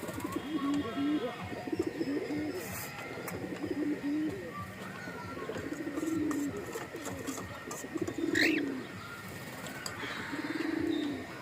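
Birds calling: a run of short, low, raspy calls repeating every second or so, with a single higher rising chirp about eight seconds in.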